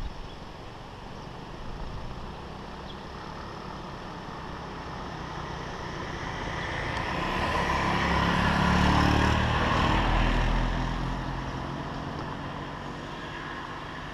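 A motor vehicle driving past on the road: its engine and tyre noise grow louder, peak a little past the middle, then fade away.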